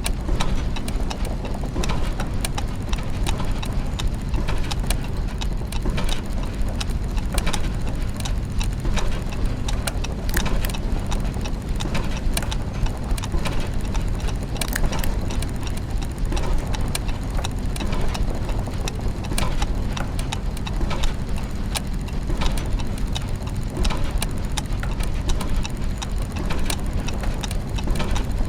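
Clockwork mechanisms and gears turning: many overlapping irregular ticks and clicks over a steady low mechanical hum.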